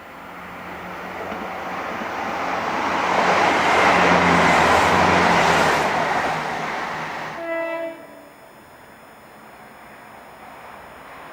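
A train passing through the station, its rail and running noise building to a peak about four seconds in and then fading. A short train horn note sounds about seven and a half seconds in and cuts off suddenly.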